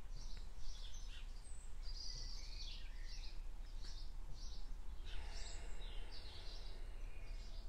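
Garden birds singing: a run of short high notes, roughly two a second, with a few other chirps mixed in, over a steady low background rumble.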